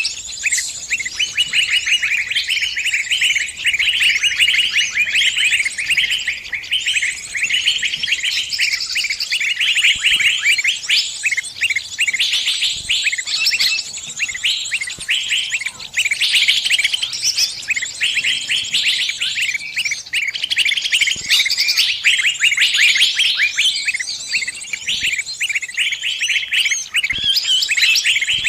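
Small birds' dense, rapid, high chirping that runs on without a break: the distress calls of a trapped bird crying out to its flock.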